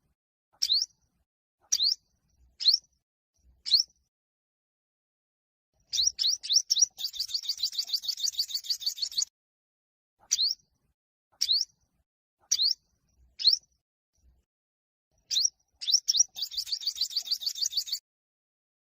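Olive-backed (yellow-bellied) sunbird singing a male competition song. Short, sharply rising notes come about once a second, and twice a run of quick notes breaks into a fast, buzzy trill of two to three seconds, the first about six seconds in and the second near the end.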